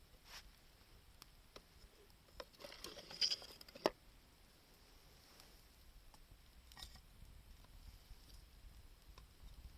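Wood fire crackling: scattered small pops, with a short burst of crackling that ends in one sharp snap between three and four seconds in.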